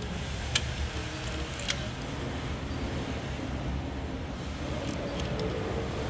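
Hand tools clinking against metal as work goes on under the hood: two sharp clicks in the first two seconds and a few fainter ones near the end, over a steady low rumble.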